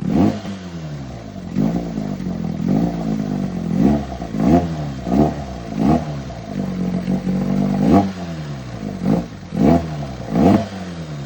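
Freshly rebuilt old Evinrude two-stroke outboard motor running and being revved in quick throttle blips, about once a second. Each blip rises sharply in pitch and falls back to a fast idle.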